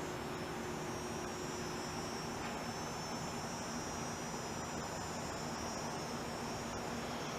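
Steady outdoor background noise with an even high-pitched insect drone over a faint low hum.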